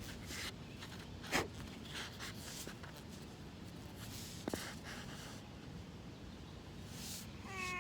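Soft scratching and rustling with a sharp click about a second and a half in and another near the middle, over a low steady rumble.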